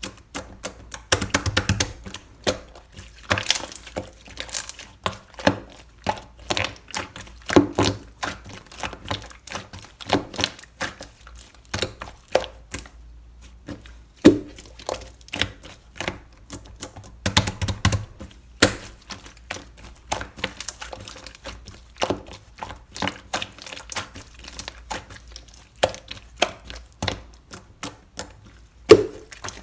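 Mint milk slime being squeezed and poked by hand, making irregular sharp clicks and pops, with quick runs of clicks about a second in and again near the middle.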